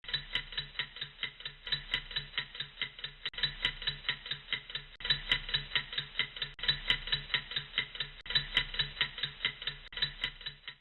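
Clock-like ticking, fast and even at about six ticks a second, with a low pulse under each tick.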